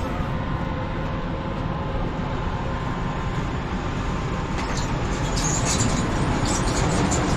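Industrial laser cutting machine running: a steady, dense mechanical rumble with faint steady tones, joined about halfway through by an irregular high crackle as the level rises slightly.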